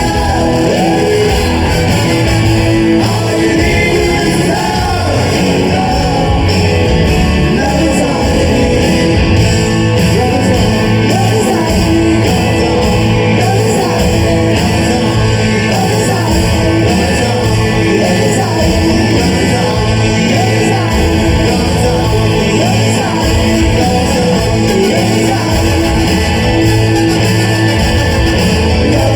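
Live rock band playing in a large concert hall, with singing over the guitars and drums and shouts from the crowd.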